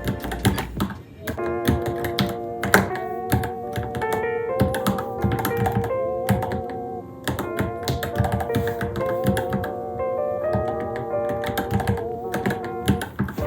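Irregular keystrokes typed on a Varmilo Minilo keyboard, over background music with a held, wavering melody.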